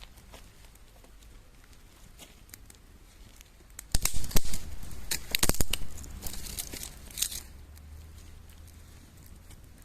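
Packaging being torn open and crinkled: a burst of sharp crackling and rustling about four seconds in that lasts about three seconds and then dies away.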